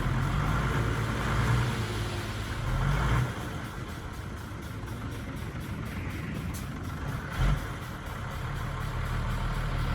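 Heavy machine's diesel engine running steadily, louder for the first three seconds and then easing off, with a single short thump about three quarters of the way through.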